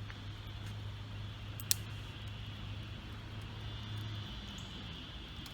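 A low, steady engine drone, like a distant vehicle or aircraft, that fades out about four seconds in, with a single sharp click about two seconds in.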